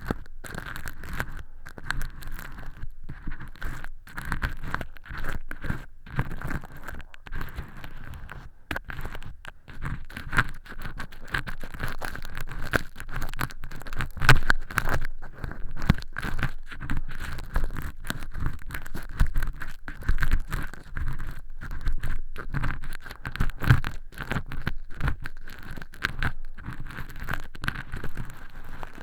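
An earpick scraping and picking inside a silicone ear model's canal: a dense, continuous run of close crackling scratches and rustles as thin flakes of fake earwax are peeled away.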